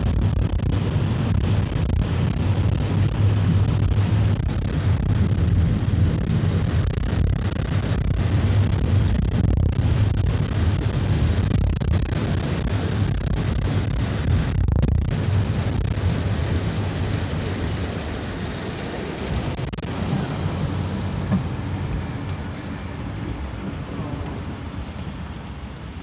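Heavy rain with a long, low rolling rumble of thunder, heard from inside a moving minibus. The rumble dies down over the last third.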